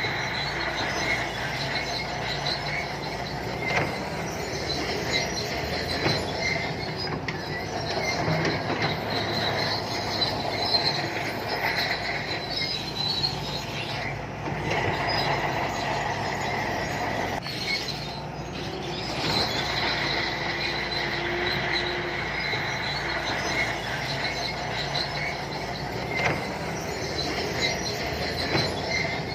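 Shantui crawler bulldozers working: diesel engine running steadily under load, with a high squeal and scattered clanks from the steel crawler tracks.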